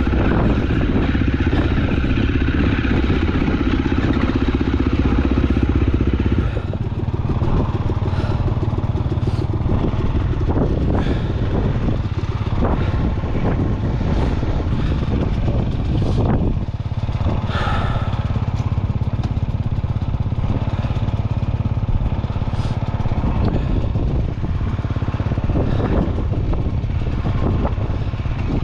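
KTM enduro dirt bike engine running on rough singletrack. The note is steady for the first six seconds or so, then turns rougher and uneven, with frequent knocks and clatter from the bike over rocks.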